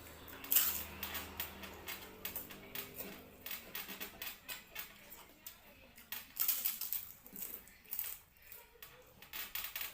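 Close-up eating sounds: rapid irregular wet clicks of chewing and lip-smacking while eating fish-head curry.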